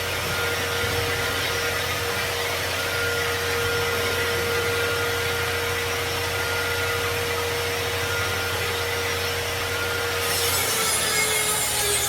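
Electric woodworking power tool running and cutting wood steadily, with a constant motor tone. About ten seconds in, the motor's tone slides down in pitch as it slows under load.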